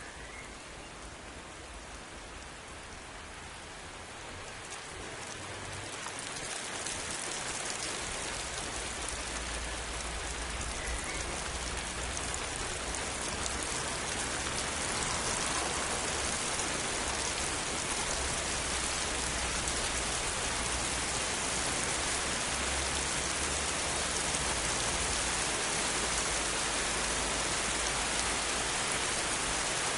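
Steady rain falling, growing heavier and louder about five seconds in and then holding at a steady downpour.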